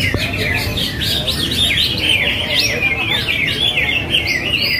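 Several cucak hijau (greater green leafbirds) singing at once in a contest, a dense, unbroken tangle of quick falling chirps and whistles over low background noise.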